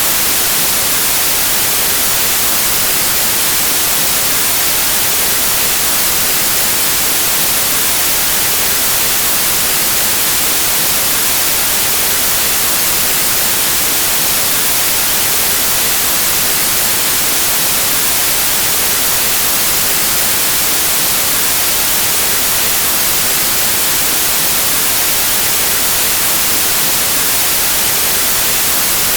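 Pure white noise: a steady, unbroken static hiss, brightest in the treble, with no changes.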